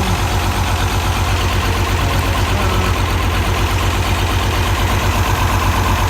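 Tractor engine idling steadily after a cold start, with an even, low pulsing beat; the owner notes it has a miss.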